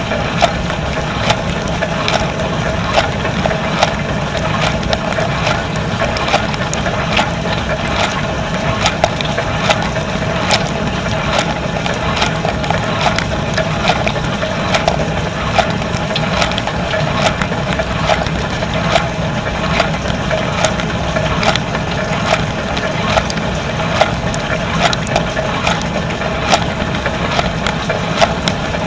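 Dishwasher running its wash cycle: a steady hum from the wash pump, with water jets spattering and clicking irregularly against the inside of the tub and the dishes.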